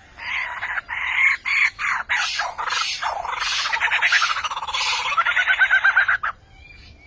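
A bird calling loudly in a long run of harsh calls, ending in a fast series of short rising pulses before it stops about six seconds in.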